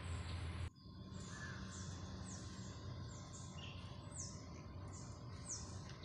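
A bird calling over and over, a short high note sliding down in pitch about twice a second, with a couple of lower chirps among them. A rushing noise cuts off suddenly under a second in.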